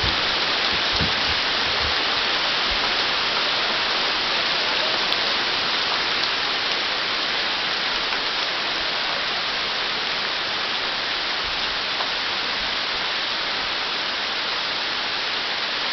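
Hailstorm with heavy rain: a dense, steady hiss of rain and hail pelting down, with a few low bumps in the first two seconds.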